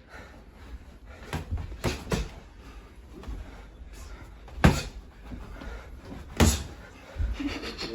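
Punches landing during sparring: a scatter of sharp thuds, the two loudest blows about halfway through and again near the end.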